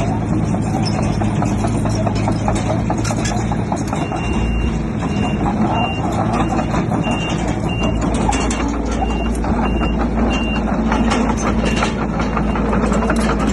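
Heavy bulldozer's diesel engine running under load with its steel tracks clanking. A reversing alarm beeps steadily from about four seconds in until near eleven seconds.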